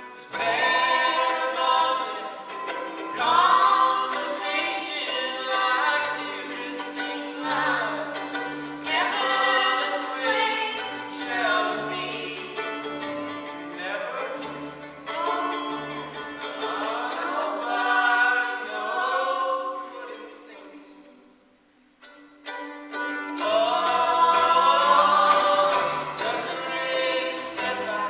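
Live music, mainly bowed violin playing sliding notes over a held low drone. It fades almost to nothing about twenty seconds in, then comes back.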